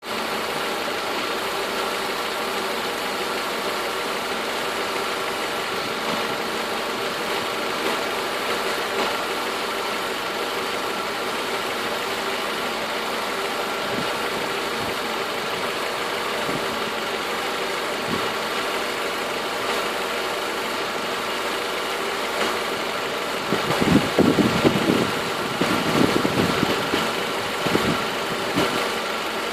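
Mercedes C230 Kompressor's M111.975 supercharged four-cylinder engine idling steadily. For a few seconds near the end, irregular low bumps and rumbles come in over the idle.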